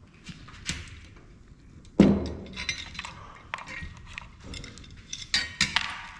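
Small metal parts and tools clinking and knocking on a hard surface while a thermal printer is taken apart, with one sharp knock about two seconds in and a run of clinks near the end.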